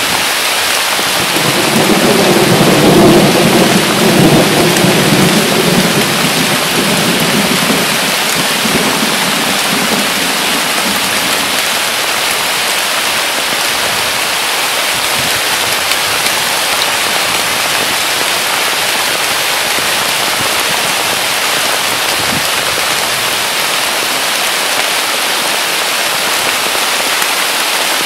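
Heavy, steady rain pouring down through a weeping willow's leaves. A rumble of thunder swells about a second in, is loudest a few seconds later and dies away by about eleven seconds in.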